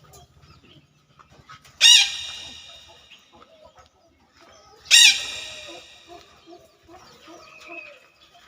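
Rooster crowing twice, about three seconds apart, each crow loud and fading over about a second, with softer low clucking after the second crow.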